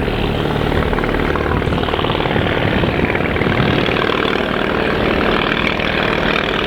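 English Electric Wren ultralight in flight: the small 398cc ABC flat-twin motorcycle engine and propeller drone steadily, wavering a little in level.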